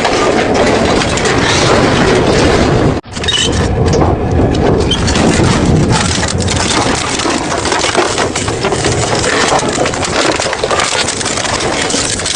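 Double-shaft shredder crushing and tearing metal: a continuous dense crunching with many sharp cracks. The sound cuts out for an instant about three seconds in.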